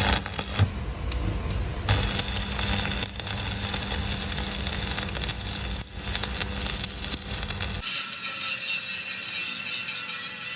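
A tool working on steel makes a harsh, steady noise, with an abrupt change in its sound about eight seconds in.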